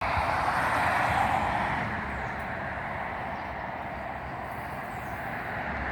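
Steady hum of many honeybees buzzing around an opened bee package, a little louder in the first two seconds.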